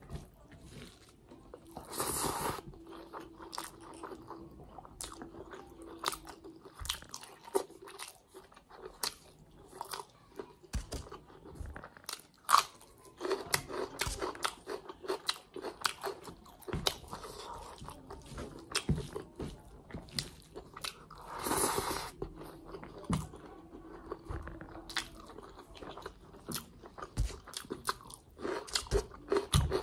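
A person chewing a mouthful of chicken liver, gizzards and rice eaten by hand, with many short chewing clicks and crunches. Two louder, longer noisy bursts come about two seconds in and again about twenty-two seconds in.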